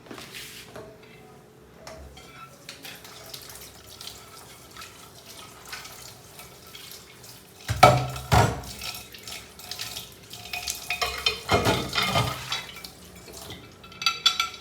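Water splashing and dripping as a sponge and dishware are washed, with clinks of dishes. It is loudest about halfway through and again a few seconds later.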